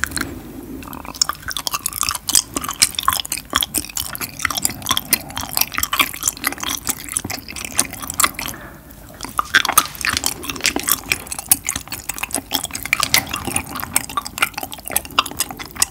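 Close-miked chewing of a soft mango-flavoured gummy jelly: a dense, steady run of small mouth clicks and smacks, with a short lull about halfway through.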